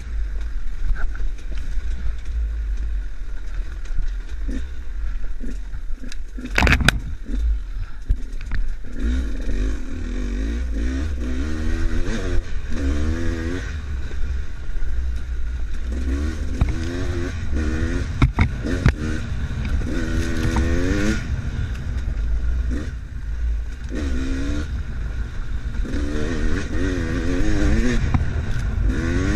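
Enduro motorcycle engine revving up and down in repeated bursts over a steady low rumble, with a couple of sharp knocks, the loudest about seven seconds in.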